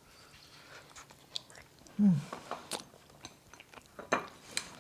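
A person chewing and biting into roasted chicken wings, with wet mouth clicks and crunches, and a brief falling hum of the voice about two seconds in.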